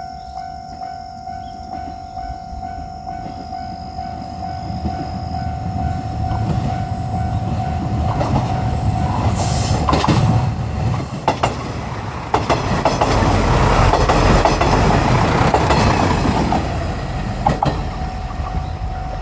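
Japanese level-crossing warning bell ringing about twice a second while a diesel tourist train approaches with a building rumble. The train then passes close by with loud wheel clatter over the rails, drowning the bell, which is heard again near the end.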